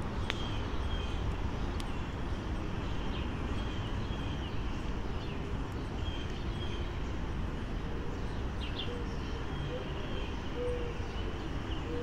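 Small birds chirping now and then over a steady outdoor background hum. From about eight seconds in comes a soft, low cooing call of a few short notes, owl-like in sound.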